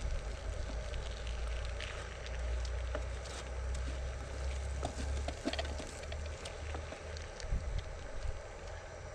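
Wind buffeting the microphone as a steady low rumble, with scattered light clicks and knocks.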